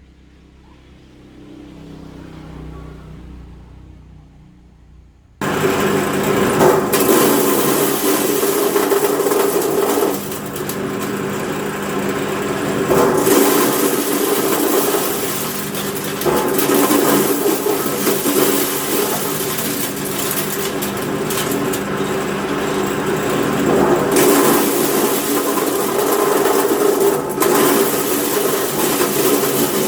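A motor-driven machine running steadily with a constant hum, starting abruptly about five seconds in after a quiet stretch.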